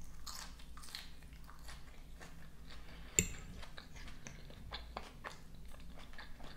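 Close-up crunchy chewing and biting of raw green onion and salad, a run of small crisp crunches. About three seconds in, a fork clinks once against the plate.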